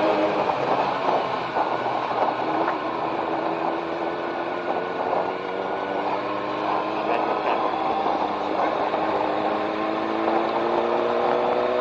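Inline-four sport-touring motorcycle engine running under way, its pitch easing slightly at first and then rising slowly and steadily as it gathers speed, over a steady rush of noise.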